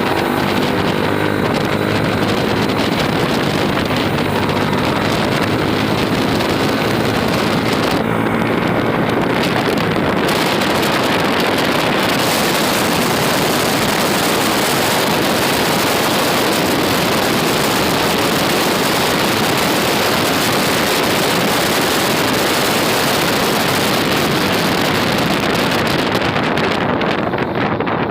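Wind rushing over the microphone of a moving motorcycle, a loud steady roar, with the motorcycle's engine running underneath.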